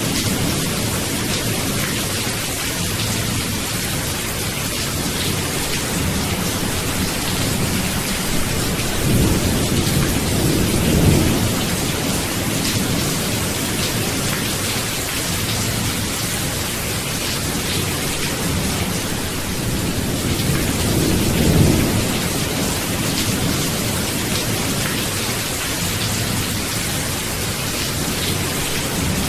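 Steady heavy rain hissing, with low rolls of thunder swelling up twice, about nine seconds in and again about twenty seconds in.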